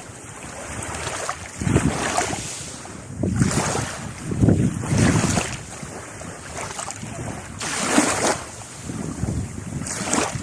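Sea waves washing and splashing in irregular surges every second or two, with wind buffeting the microphone.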